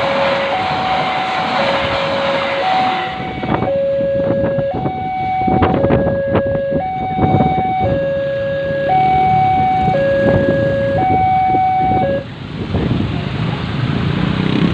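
Railway level crossing warning alarm sounding two alternating tones, each held about a second, over the loud rushing noise of a fast train passing, with sharp knocks from the wheels on the rails in the middle. The alarm stops about twelve seconds in.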